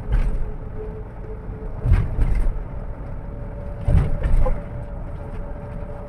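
Bus running on the road: a steady engine and road rumble with a faint held hum, jolted by two heavy low thumps about two and four seconds in.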